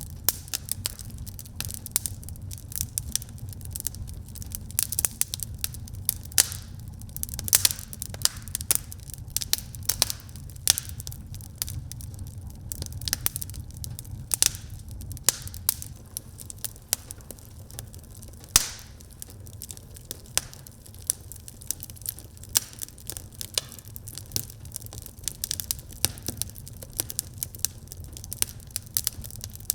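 Wood fire burning in a fireplace, crackling with many irregular sharp pops over a steady low rumble; one louder pop about two-thirds of the way through.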